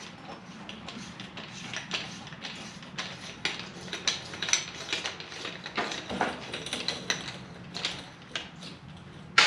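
Metal tools and parts being handled on a workbench: irregular light clinks, taps and knocks, with no power tool running.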